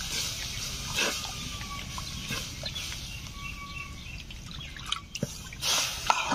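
A hiss dies away in the first second. After it come a few short, thin bird chirps and light clicks over quiet rural background, and a rush of noise swells near the end.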